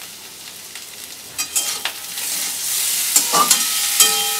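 Mashed boiled potatoes frying in oil in a kadai, sizzling, while a metal spatula scrapes and taps against the pan as they are stirred. The sizzle is faint at first and grows louder about halfway through, with a few sharp clicks of the spatula.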